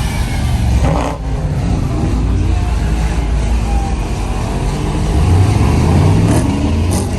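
Vehicle engines running and revving, with an engine's pitch rising about five seconds in as it is revved up.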